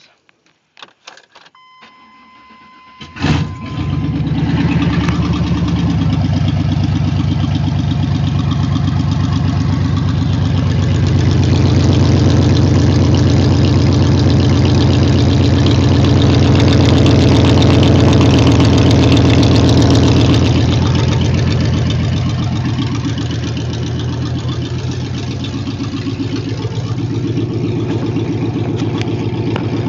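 Small-block Chevy V8 with stainless shorty headers dumping into short open collectors, cranking and catching about three seconds in, then running with a loud open-header exhaust note. It runs a little louder for about ten seconds in the middle, then settles back to idle.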